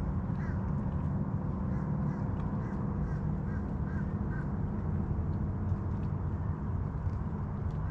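Birds giving short, repeated calls over the steady low hum of a boat engine on the water.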